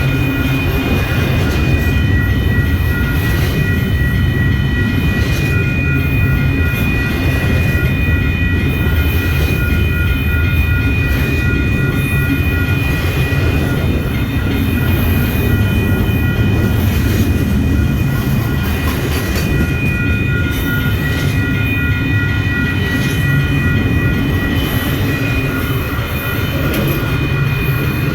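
A train rolling past at close range: a steady rumble of railroad cars with clicking wheels and a thin, steady high ringing tone on top.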